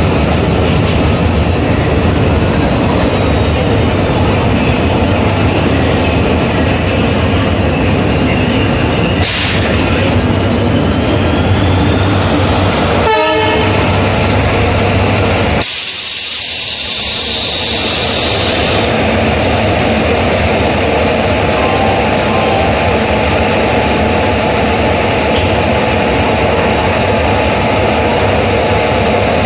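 Coaches of a departing Indian Railways express train rolling past, a steady loud rumble with a quick run of even clicks from the wheels a little before halfway. Shortly after, the sound changes abruptly and the low rumble drops away.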